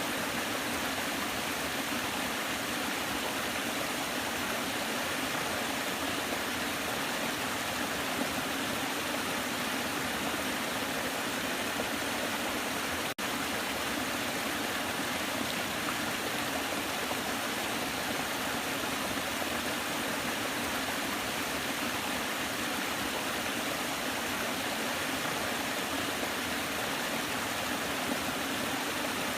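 Waterfall: water rushing in a steady, even roar-like hiss, with one momentary dip about halfway through.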